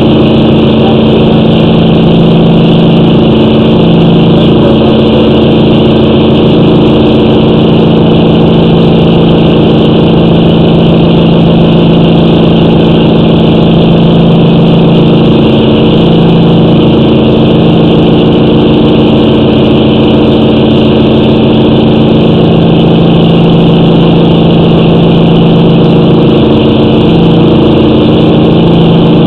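Loud, steady engine-like drone with a fixed pitch and a slight rise and fall every few seconds.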